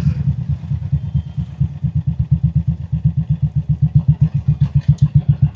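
Royal Enfield Classic 350's single-cylinder engine running at low revs, an even beat of about nine firing pulses a second. A few light clicks come near the end.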